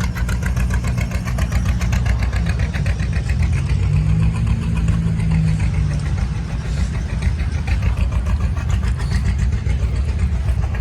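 Antique tractor engine running close by, with an even, rapid exhaust beat. Its low note swells briefly about four seconds in.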